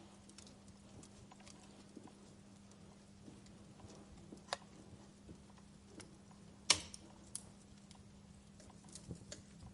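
Wood fire crackling in a fireplace: irregular small pops and snaps, the sharpest one about seven seconds in.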